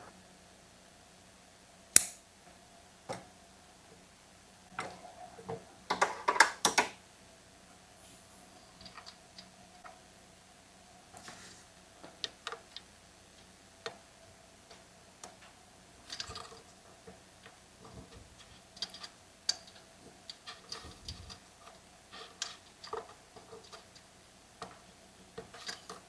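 Scattered clicks, taps and light knocks of hands handling small chainsaw parts, fuel line and tools on a bench, with a faint steady hum underneath. A sharp click about two seconds in is the loudest, and a quick run of clattering follows around six seconds in.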